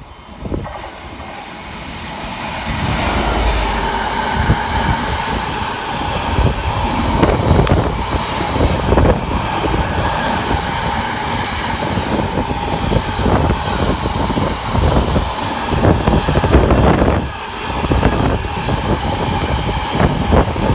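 Class 66 diesel freight locomotive, with its EMD two-stroke V12, passing through at speed: the sound builds over the first few seconds to a loud rumble. A long train of freight wagons follows, rattling past with a rapid run of wheel clicks over the rail joints.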